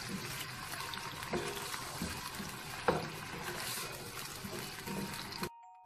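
Chicken pieces sizzling on full flame in a nonstick pan, a steady watery hiss as the meat gives off its moisture, with a spatula knocking against the pan a few times. The sound cuts off suddenly near the end.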